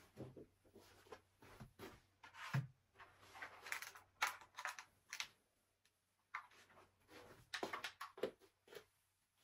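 Faint, irregular clicks, taps and rustles of objects being handled, with a short lull about two thirds of the way through.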